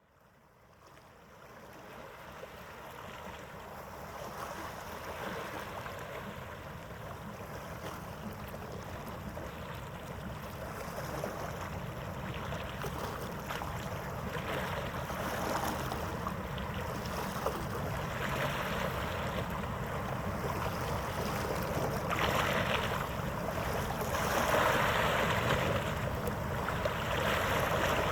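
Steady rushing noise of wind and harbour water, fading in over the first few seconds and growing slightly louder.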